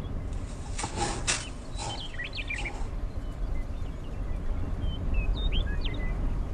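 Small birds chirping in short, quick up-and-down calls, in two bursts, over a steady low wind rumble, with a few light taps in the first few seconds.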